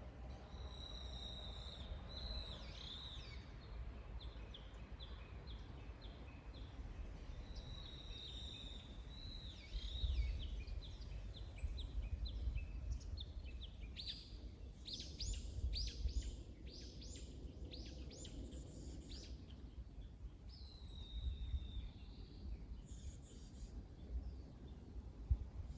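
Songbirds singing: a phrase that opens with a held high whistle and breaks into quick notes recurs several times, and a run of rapid sweeping notes comes in the middle. A low rumble runs underneath.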